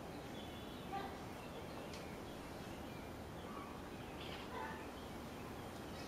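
Outdoor ambience with a few short bird calls, spaced out over several seconds, above a steady background hiss.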